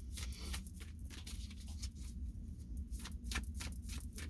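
Tarot cards being handled and shuffled, a run of light, irregular papery clicks and flicks, over a steady low hum.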